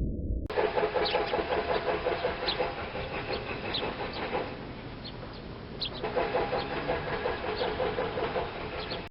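A bird calling in a rapid run of low, evenly repeated notes, in two bouts with a pause of about a second and a half between them, while thin high chirps from smaller birds come through now and then.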